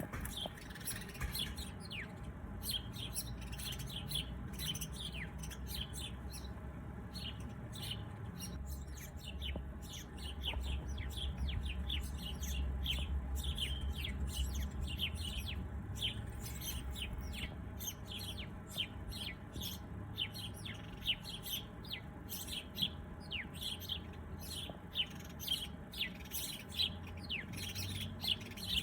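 Many small birds chirping: a dense run of short, quick chirps overlapping one another, over a low rumble.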